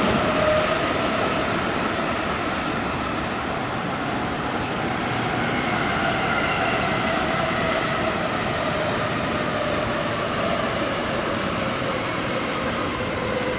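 Electric train running along the rails, a steady rumble of wheels and track with faint whining tones that slowly drift in pitch.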